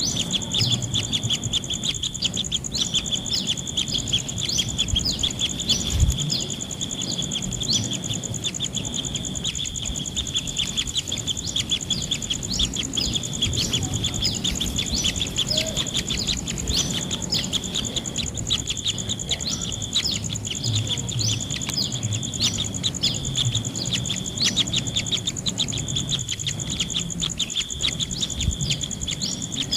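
Birds giving short, high chirps repeated in a quick, continuous series, over a steady high-pitched insect drone.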